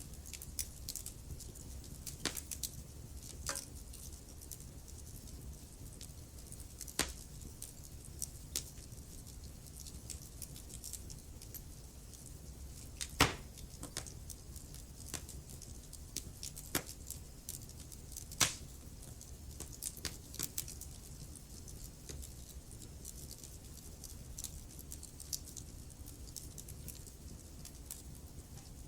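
Wood fire crackling in a fireplace: irregular sharp pops and snaps over a low steady rumble of the flames, with two louder pops about halfway through.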